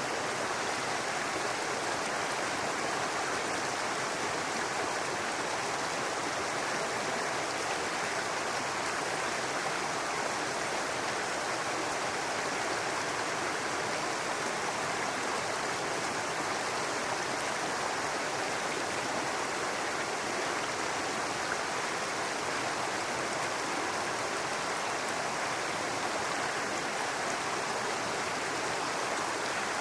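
A small brook running steadily over rocks, a continuous babbling and rushing of water with no let-up.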